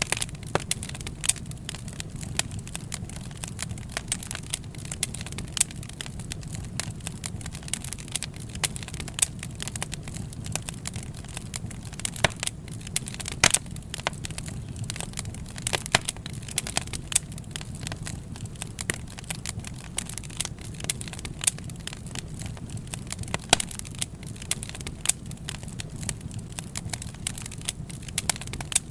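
Wood fire crackling, with frequent irregular sharp snaps and pops over a steady low rumble.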